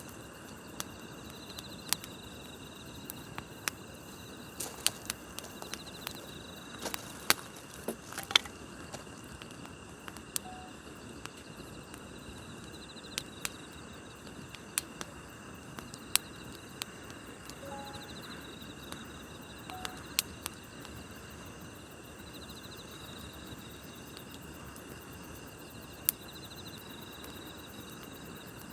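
Campfire crackling, with irregular sharp pops and snaps, over a steady chorus of grass insects trilling at night.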